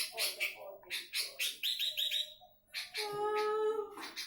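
Sooty-headed bulbul singing a full, varied song of rapid high chattering notes and quick repeated phrases, with a longer, lower drawn-out note about three seconds in.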